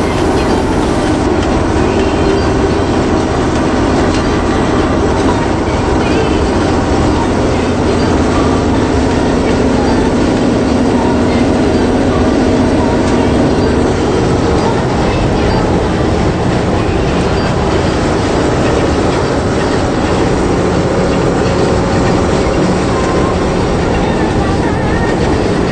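DAF 75 lorry on the move: a steady engine drone mixed with road and rolling noise and some rattle.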